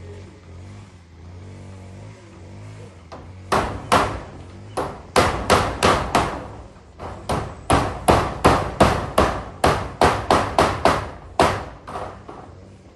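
Hammer driving nails: a quiet start, then from a few seconds in a long run of sharp strikes, about three a second, tailing off near the end.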